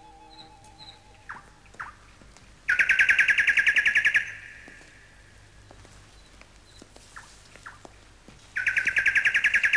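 Songbird trilling: two fast, rattling trills about six seconds apart, each about a second and a half long, with a few short chirps between.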